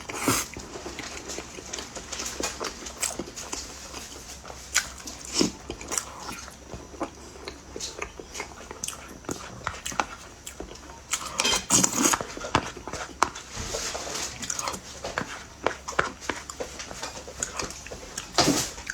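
Close-miked chewing and wet mouth sounds, with irregular smacks and clicks, as someone eats a dense, sticky chocolate and peanut pastry.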